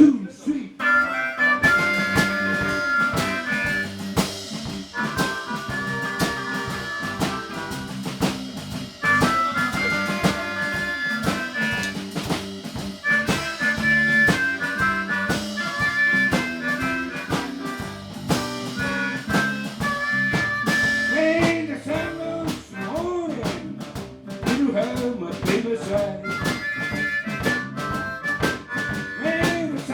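Live blues band playing an instrumental passage: harmonica carries the melody in held notes over a steady drum-kit beat and guitar. In the second half, lower notes bend up and down.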